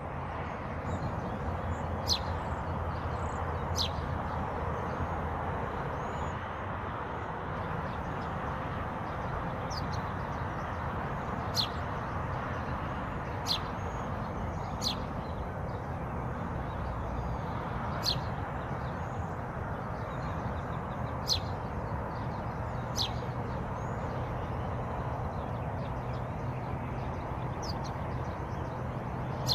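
Birds singing: sharp, quick downward-swept chirps every one to a few seconds, with fainter high twittering between them. Underneath runs a steady rushing background noise with a low hum.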